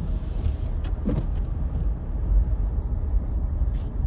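A car driving, giving a steady low rumble of engine and road noise, with a brief sharp click near the end.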